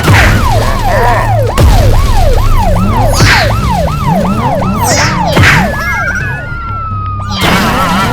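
Emergency-vehicle siren sound effect yelping, a rapid rise and fall about two to three times a second, over background music. A few swishes, and a slowly falling whistle about six seconds in.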